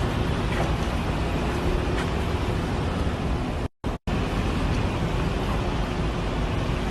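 Steady road and wind noise of a moving vehicle, with no distinct events, cutting out for a split second a little before the middle.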